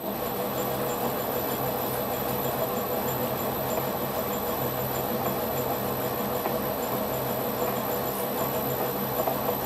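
Holbrook C8 metal lathe running steadily in reverse at about 600 RPM, taking a screw-cutting pass on a 1/4-20 thread; the motor and gearing make a constant mechanical hum that comes in abruptly.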